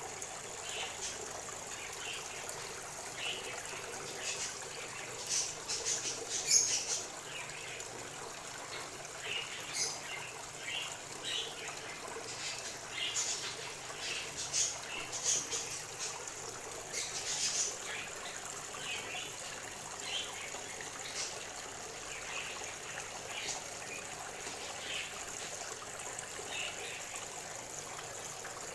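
Small birds chirping and singing in short, scattered calls, loudest about six and a half seconds in, over a steady background hiss.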